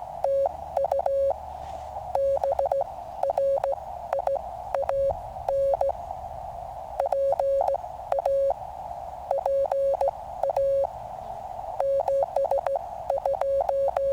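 Morse code (CW) from a QRP Labs QCX mini transceiver: a single high beep keyed in quick short and long elements, in groups of characters with pauses between. Under it runs a steady hiss of band noise through the receiver's narrow CW filter.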